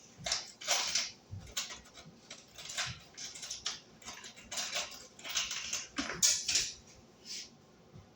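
Hand rummaging through a container of loose small metal screws, with irregular clicks and rattles as they are stirred and picked through.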